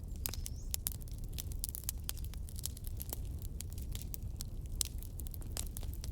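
Fireplace fire crackling: many sharp, irregular snaps and pops over a steady low rumble.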